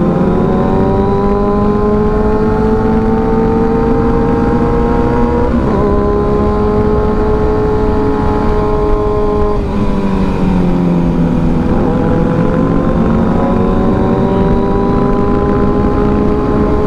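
Kawasaki ZX-6R inline-four engine running under way at cruising speed, its pitch easing up and down with the throttle. It breaks briefly about five and a half and nearly ten seconds in, then dips near twelve seconds before climbing again, over a low rumble of wind.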